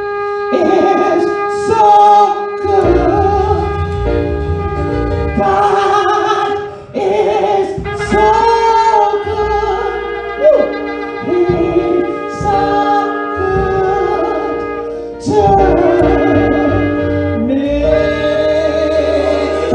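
Church worship music: a solo voice singing a melody over steady, sustained instrumental chords.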